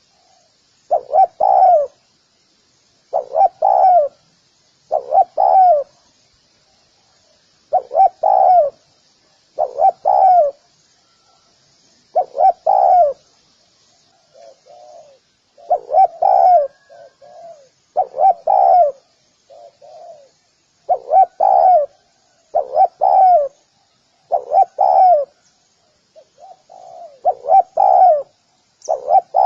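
Spotted dove cooing: repeated coo notes about every two seconds, with softer coos from a second dove in between. Faint high chirping of small birds runs under it.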